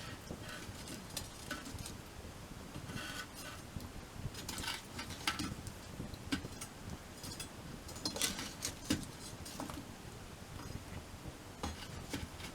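Wood campfire crackling, with irregular sharp pops and snaps that cluster in short flurries, the busiest about a third of the way in and again past the middle.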